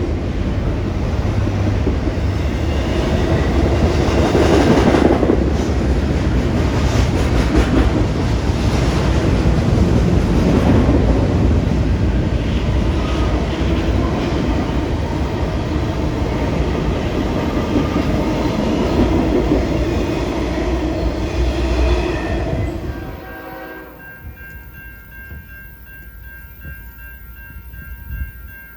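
Freight train rolling past close by: a steady, loud rumble and rattle of cars and wheels on the rails. It cuts off sharply near the end, leaving a much quieter stretch with a few steady high tones.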